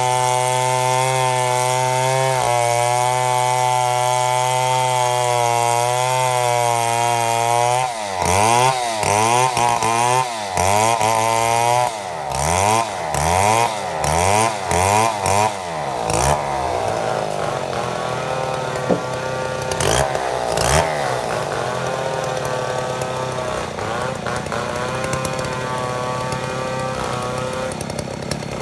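Chainsaw engine running at a steady high pitch for about eight seconds, then revved up and down repeatedly, about once a second, for another eight seconds, then running on more roughly at a lower, uneven speed.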